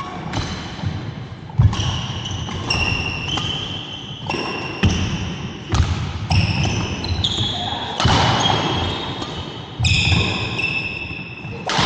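Badminton doubles rally: repeated sharp racket hits on the shuttlecock mixed with many short, high squeaks of court shoes sliding on the hall floor.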